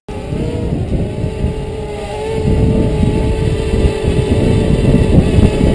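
DJI Mavic Mini drone's propellers whining steadily close by, in strong wind that buffets the microphone with a heavy, uneven rumble.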